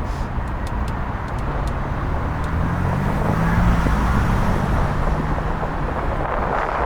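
Road traffic noise from cars in slow city traffic, with one vehicle's engine hum swelling and then fading near the middle. A few light clicks come in the first two seconds.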